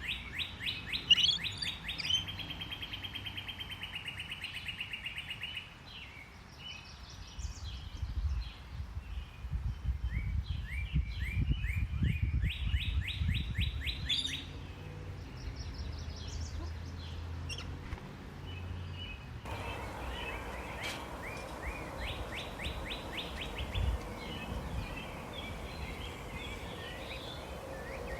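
Songbirds singing: fast trills of rapidly repeated high notes, mixed with shorter chirps. About two-thirds of the way in, the background changes suddenly to a steady low hum under the birdsong.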